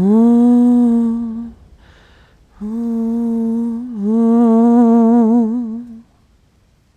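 A woman humming a slow lullaby in long held notes, in three phrases with short pauses between them; the last phrase wavers and ends about six seconds in.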